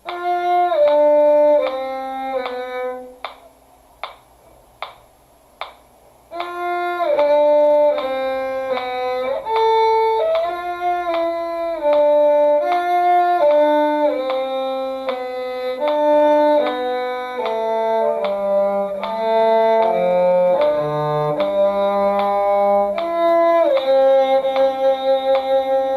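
Violin and cello playing a duet in an Allegro moderato, the violin on the upper line over a lower cello part. A short phrase breaks off after about three seconds. A few evenly spaced clicks follow, then both parts play on together.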